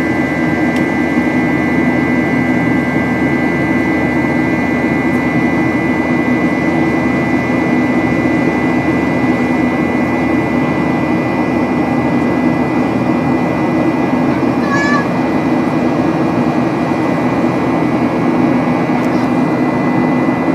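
Cabin noise of a Boeing 737-8 in its climb: the steady roar of the CFM LEAP-1B engines and airflow, with a low hum and steady high whining tones from the engines' fans. A brief high warbling sound about three-quarters of the way through.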